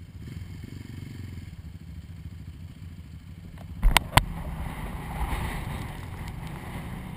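ATV engine running at low revs with a steady rumble. Two sharp knocks come close together about four seconds in, followed by a rushing noise.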